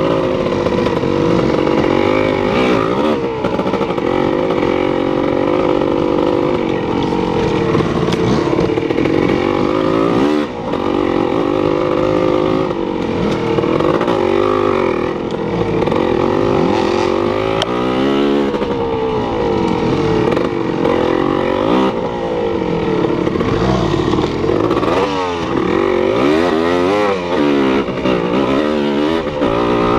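A motor vehicle's engine running, its pitch rising and falling again and again as the revs change.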